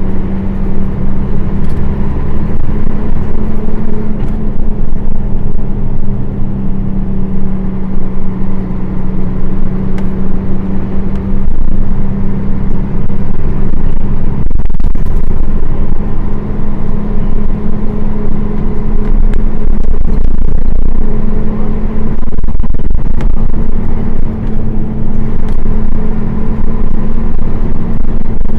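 Nissan Diesel PF6 six-cylinder diesel engine of a city bus running steadily under way. The engine note breaks off briefly about halfway through, then returns.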